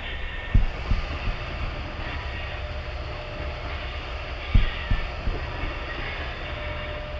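A moving vehicle runs with a steady rumble. Pairs of short low thumps, like wheels going over joints or bumps, come about a second in and again about two-thirds of the way through.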